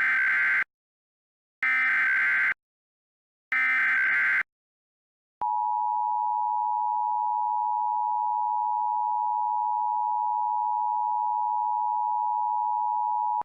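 Emergency Alert System signal: three short buzzing data bursts of the digital header, followed about five seconds in by the steady two-tone attention signal, held for about eight seconds.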